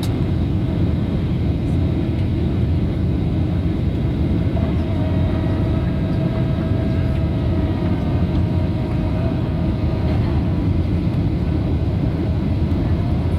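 Passenger jet airliner cabin noise: a steady low rumble of the engines and airflow, with a faint steady whine in the middle.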